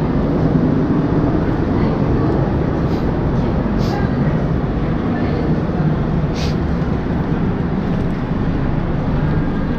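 Steady low rumble and hum of a standing passenger train at a station platform, with faint voices in the background and a couple of brief high clicks.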